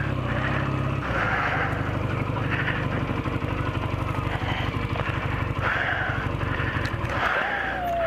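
Motorcycle engine running steadily while riding, with wind and rain noise on the microphone. Near the end the engine note drops away and a single high tone glides downward.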